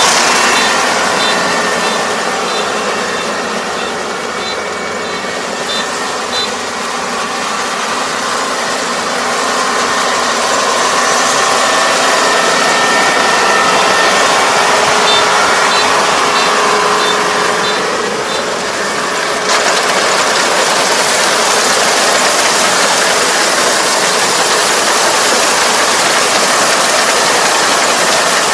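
ER470 combine harvester running steadily, its engine and machinery making a continuous mechanical noise that becomes brighter and hissier about two-thirds of the way through.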